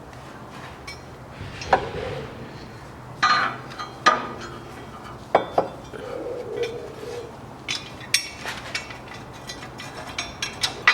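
Metal parts and tools clinking and knocking as a steel bracket is fitted to the exhaust manifold and its bolts are started by hand: about six separate sharp knocks, some with a short metallic ring.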